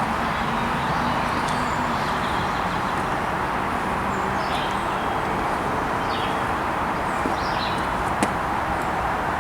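Steady rush of distant highway traffic, with short, downward-sliding bird chirps scattered over it.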